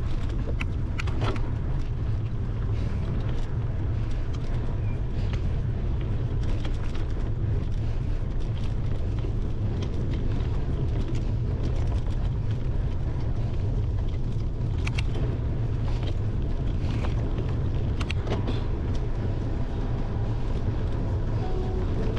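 Bicycle riding over a gravel and dirt trail, heard through a handlebar-mounted camera: a steady low rumble of tyres and wind, with scattered small clicks and rattles from the bike and the stones.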